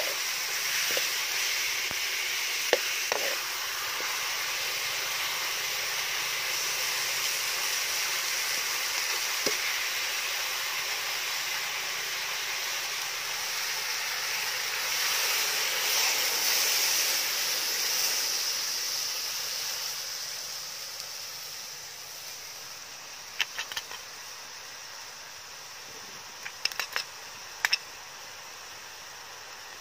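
Eel pieces sizzling as they fry in a steel wok, with a few clinks of a metal ladle at first. The sizzle swells in the middle, then dies down over the last third, when a few sharp clicks are heard.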